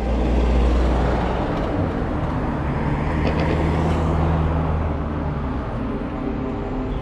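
Heavy truck diesel engines running in a convoy, a steady low rumble that eases slightly after about five seconds.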